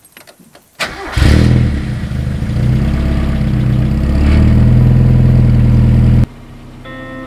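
1989 Mazda MX-5 Miata's 1.6-litre four-cylinder engine started: a short crank about a second in, catching with a brief flare of revs, then running steadily. It cuts off suddenly near the end, where guitar music comes in.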